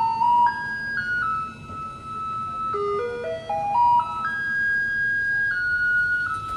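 Garbage truck's loudspeaker playing its electronic jingle, a plain beeping one-note-at-a-time melody: a rising run of short notes, then long held notes, with the rising run coming again about three seconds in.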